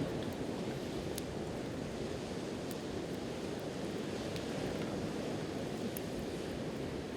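Sea surf washing on the shore as a steady rushing noise, with a wood campfire giving a few sharp crackles on top.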